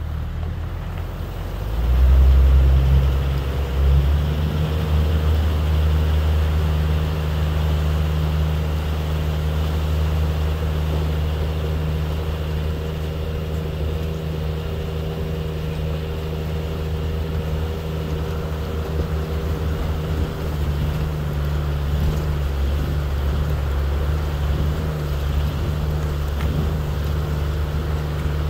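Car engine running with road noise: a steady low hum that swells briefly about two seconds in, then holds even.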